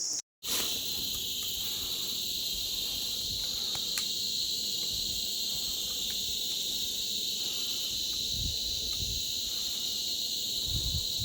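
Steady high-pitched chorus of insects shrilling without a break, with a few faint low rumbles late on.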